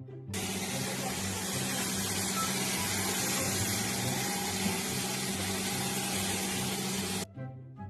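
Steady machine noise with a low hum, starting just after the beginning and cutting off abruptly near the end, over a music bass line.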